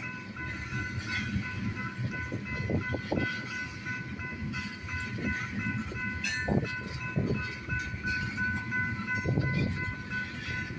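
Train cars rumbling and clattering past as the tail end of the train goes by, with scattered knocks and a steady high ringing tone.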